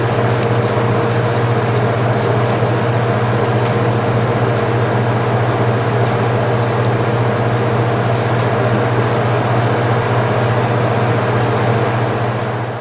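Steady low machine hum with an even rushing noise, unchanging throughout, cutting off suddenly at the end.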